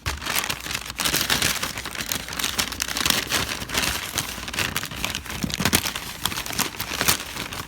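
A snack bag rustling and crinkling as hands rummage through it, pulling out a bottle of water, an orange and a granola bar.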